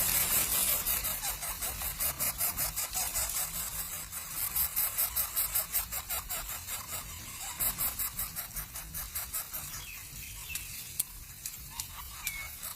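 Rapid, high-pitched pulsing animal calls that run on steadily, with a few faint short chirps near the end.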